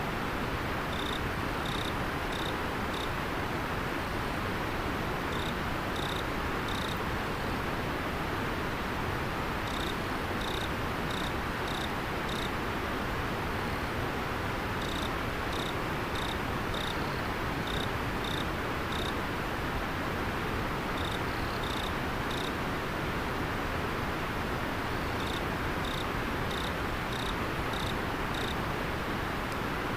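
Steady rush of a flowing river, with a singing insect chirping in short runs of four to six clear, high chirps every few seconds.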